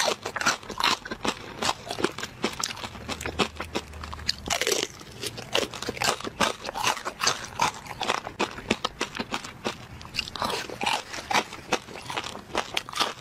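Close-miked crunching and chewing of crispy fried pork belly: a dense, irregular run of crisp crackles as the crackling skin breaks between the teeth.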